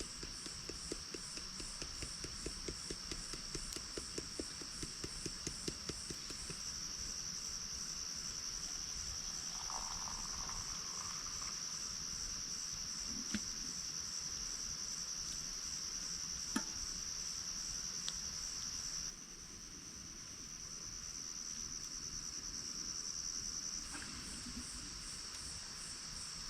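Crickets chirping in a steady, high, fast-pulsing trill. For the first few seconds it is joined by a quick run of light ticks, about four a second, and a few single clicks come later.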